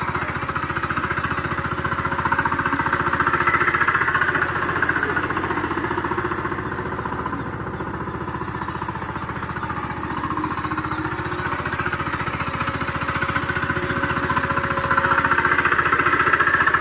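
VST Shakti 130 power tiller's single-cylinder diesel engine running with a fast, even beat, growing louder twice: around three seconds in and again near the end.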